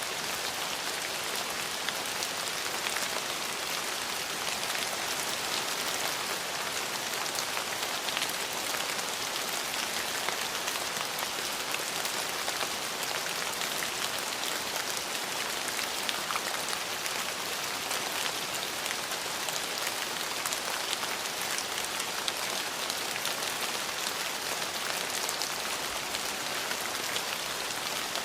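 Steady rain falling, an even hiss with many fine drop ticks on hard surfaces.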